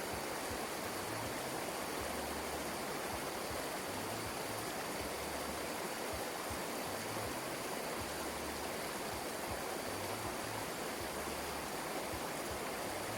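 Steady rush of fast-flowing water, runoff after heavy rain, with a faint low pulse repeating about every two seconds.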